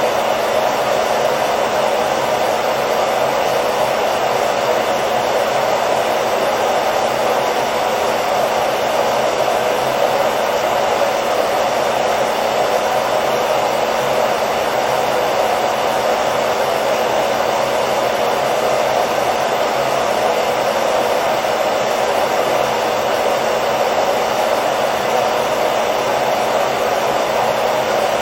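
Hair dryer running continuously: a steady, unchanging blowing whoosh with a faint motor hum.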